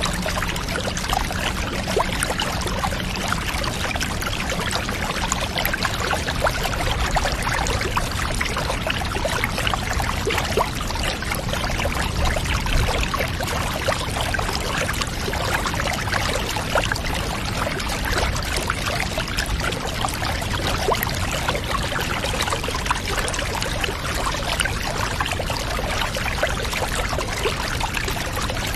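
Bath water pouring and trickling steadily, a continuous even wash of water noise with many small splashes.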